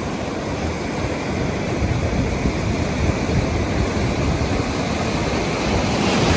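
Ocean surf at a beach with wind buffeting the microphone: a steady rushing noise with a heavy low rumble, swelling a little louder near the end.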